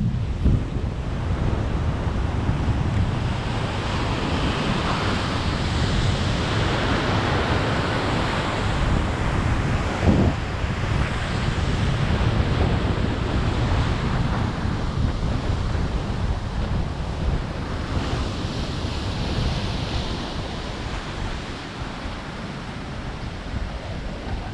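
Ocean surf washing in below, rising and falling in slow swells, with strong wind buffeting the microphone in a steady low rumble.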